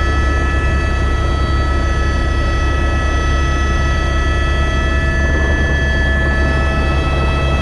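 Tour helicopter in flight: a steady, loud engine and rotor drone with several constant high whining tones above it.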